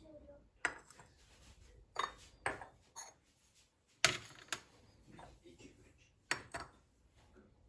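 Kitchen containers and dishes being handled and set down: a string of about eight irregular clatters and clinks, the sharpest about four seconds in.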